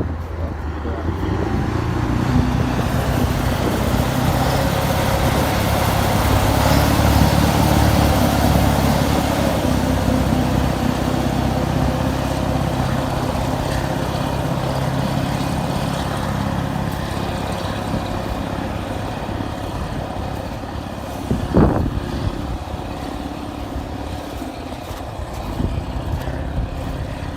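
Diesel engine of a Kirovets heavy articulated tractor running under load while clearing snow. It grows louder for the first several seconds, then slowly fades. A single sharp knock comes about three-quarters of the way through.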